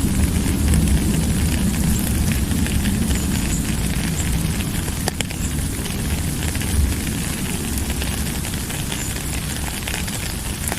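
Steady rain, an even hiss with a deep low rumble underneath and scattered sharp ticks of drops.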